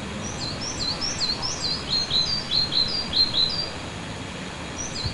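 Small birds chirping in a quick run of short, high, down-slurred notes, two or more birds overlapping, over a steady hiss. The chirping stops about two-thirds of the way through and starts again just before the end.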